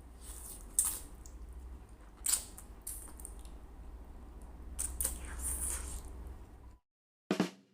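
Scattered clicks and crackles, five or so, over a steady low hum; just before the end the sound cuts out completely, then one sharp hit rings on.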